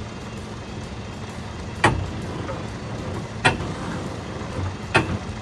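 Lorry engine idling with a steady low rumble, broken by three sharp knocks about a second and a half apart.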